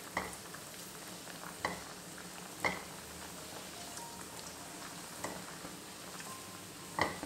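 Raisins frying in ghee in a nonstick kadai with a steady, faint sizzle. A spatula stirs them, tapping sharply against the pan about five times.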